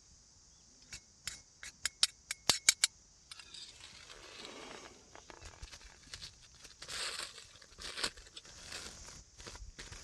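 A quick run of sharp clicks, then crinkling and tearing of plastic packaging being handled and opened.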